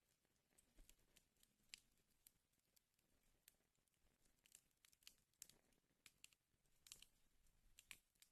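Wood fire in a fireplace crackling faintly, with irregular sharp pops and snaps over a soft low hiss.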